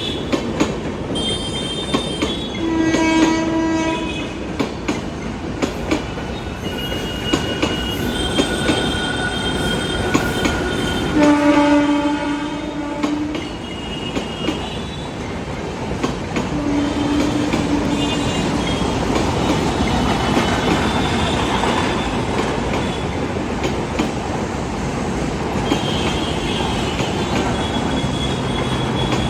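Express train running through a station at speed: a steady rumble and clatter of wheels over the track, with the horn sounded three times, the middle blast the loudest and longest, and thin high metallic squeals from the wheels.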